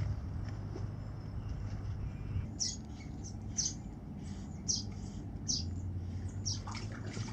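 Birds chirping: short, high, falling notes, about one or two a second, beginning a few seconds in, over a low steady hum.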